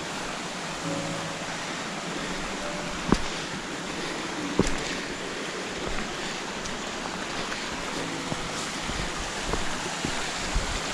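Steady rushing of a fast-flowing stream, an even hiss of water, with two sharp clicks about three and four and a half seconds in.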